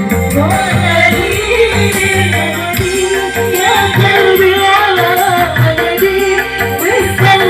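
Live dangdut band music with a woman singing an ornamented, wavering melody over a steady drum beat.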